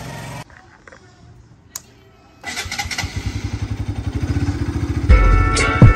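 Bajaj Pulsar motorcycle engine starting about two and a half seconds in and settling into an evenly pulsing run. Background music with a beat comes in near the end.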